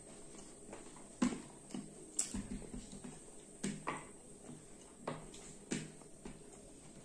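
Close-miked eating sounds of people eating rice and chicken curry with their hands: chewing and wet lip smacks, heard as an irregular string of short soft clicks.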